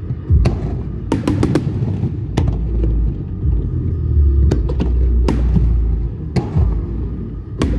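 Aerial fireworks shells bursting: a series of sharp bangs and crackles, with a quick run of four or five about a second in, over a continuous low rumble.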